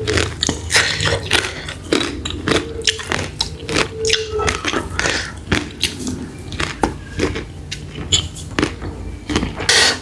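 Close-miked chewing and biting of mushrooms, a dense run of irregular wet clicks and smacks.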